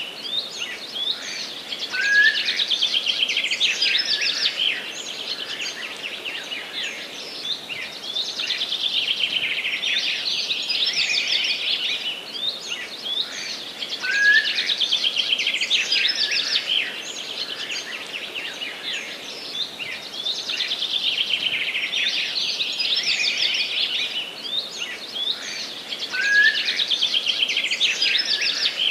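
Songbirds singing in a forest: a fast trilled song phrase repeats about every six seconds, over a faint steady background hiss.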